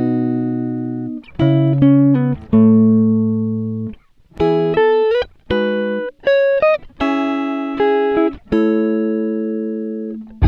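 Background music: a clean guitar plucking slow chords and single notes, each left to ring and fade before the next.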